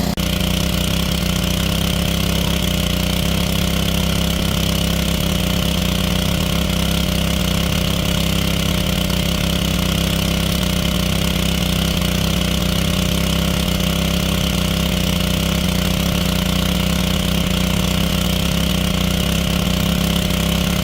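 A small engine running steadily at constant speed, with an even hum and no change in pitch.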